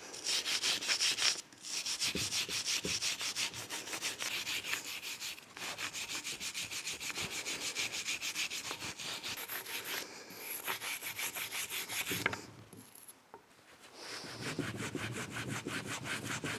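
Fast, even back-and-forth rubbing strokes, about five a second, with short breaks about one and a half and five and a half seconds in, and a longer pause near the end.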